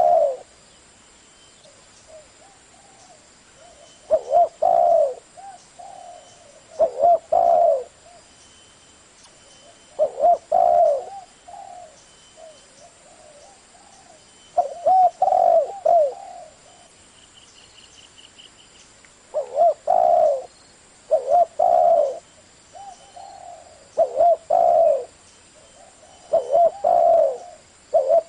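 Spotted dove cooing: repeated phrases of two or three loud coos come every two to three seconds, with softer coos in between.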